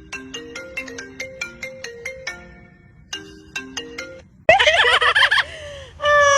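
A marimba-like phone ringtone melody plays in repeated phrases for about four seconds. Then, near the end, a pet parrot gives a loud warbling squawk and a long falling whistle.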